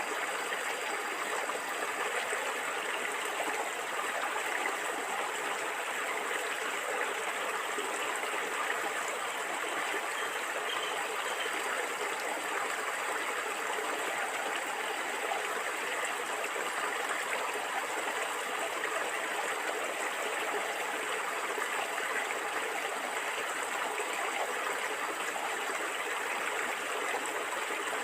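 Flowing stream water gurgling, a steady, even rush without breaks.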